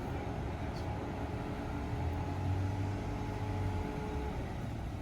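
A vehicle engine running, a steady low hum with a faint steady whine above it; the whine stops about four seconds in.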